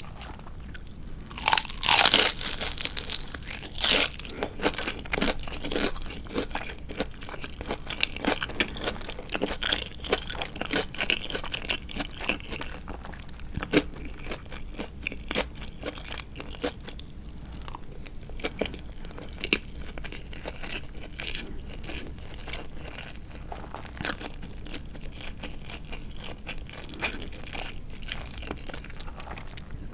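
Biting into crispy deep-fried marinated chicken (tatsuta-age): two loud crunches about two and four seconds in, followed by steady chewing with many small crunches.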